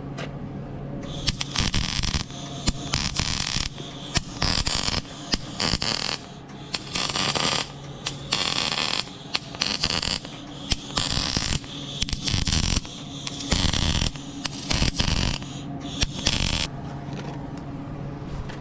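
Electric arc welding: tack welds laid in a series of short crackling runs, each about a second long, with pauses between them. A steady low hum runs underneath.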